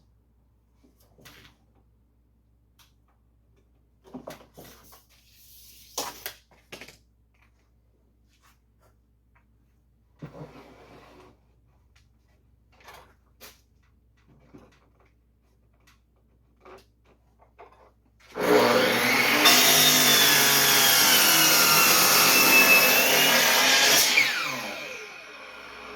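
Scattered knocks and clunks of wooden boards being handled, then an electric saw starting about eighteen seconds in and cutting through a wooden plank, its whine dipping under load. It runs about six seconds, then winds down with a falling whine.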